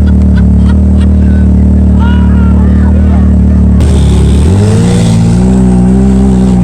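A vehicle engine running loud and steady, its pitch shifting about four seconds in as the revs change.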